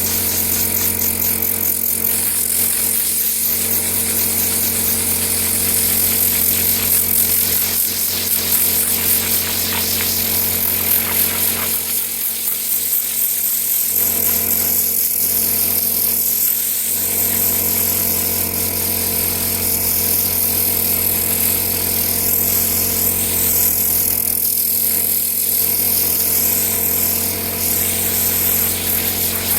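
An electric motor-driven cleaning tool running steadily, a constant motor hum with airy hiss above it.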